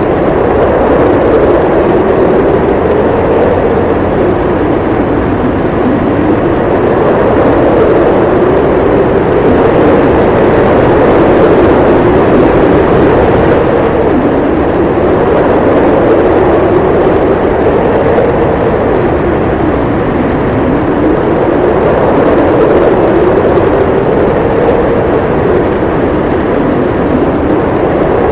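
Strong snowstorm wind howling: a loud, steady rush with a howl whose pitch slowly rises and falls every few seconds.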